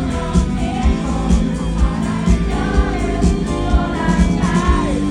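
Live pop-rock band music at a concert: an instrumental passage between sung lines, with a steady drum beat about twice a second under held melody notes and some singing.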